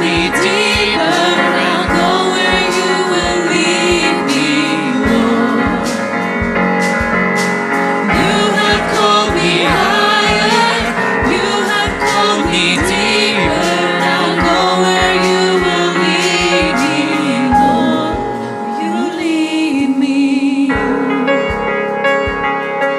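Live worship song: a lead voice and choir singing over a full band with a steady drum beat. Near the end the singing stops and the band plays on.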